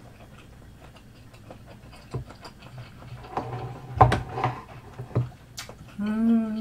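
Close-miked chewing of soft boiled fish cake, with wet mouth smacks and clicks starting about two seconds in and loudest around four seconds. Near the end comes a hummed "mmm" of enjoyment.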